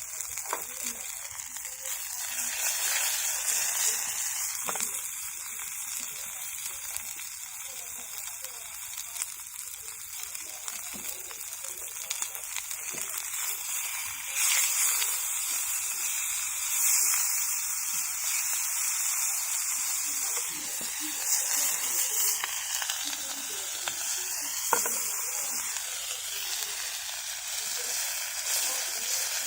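Food frying and sizzling in hot oil, a steady hiss with occasional sharp pops.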